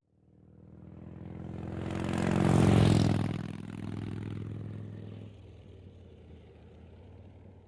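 Benda Napoleon 450's V-twin engine as the motorcycle rides past, growing louder to a peak about three seconds in, then fading away.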